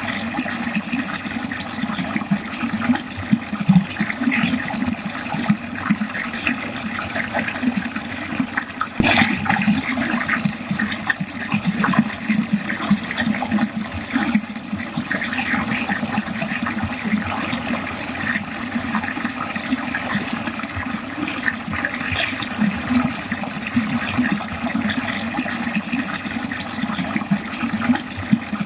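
Water pouring steadily down a drain, a continuous gurgling flow, with a brief sharper splash about nine seconds in.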